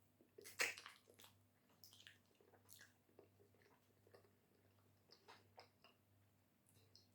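Wet, sticky mouth sounds of chewing amala with slimy ogbono soup: soft smacks and squishes, the loudest about half a second in, then scattered lighter ones.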